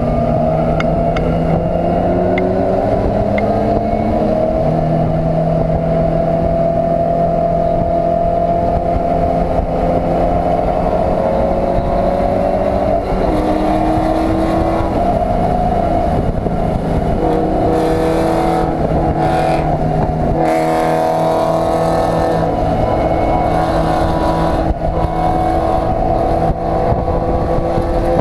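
BMW E36 race car's engine heard from inside its stripped cabin at racing speed on a wet track, pitch climbing slowly through long pulls. The revs drop briefly about twenty seconds in, then pick up again.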